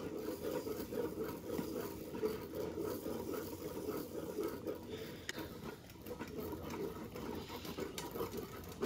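Wire whisk stirring quick-cooking grits into boiling milk in a stainless steel saucepan: a steady swishing, with the wires rubbing and scraping against the pot and a few faint ticks.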